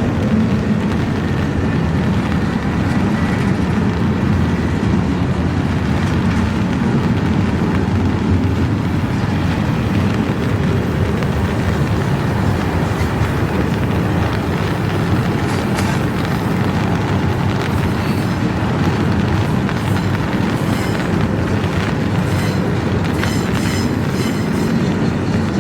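Intermodal freight train rolling slowly past, a steady rumble of wheels on rail. In the second half, clicks come in as wheels pass over rail joints.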